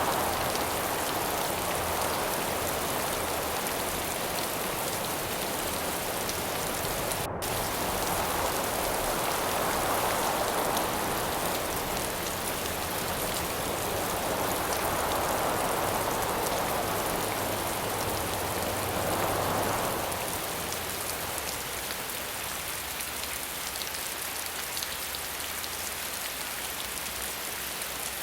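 Steady rain falling, with gusts of wind that swell and fade several times before easing off about two-thirds of the way through.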